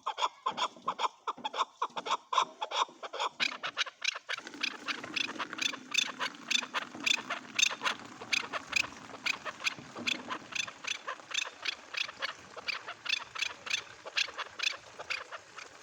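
Male chukar partridge calling, a fast run of short repeated notes several a second. From about four seconds in, a low steady hum sits behind the calls.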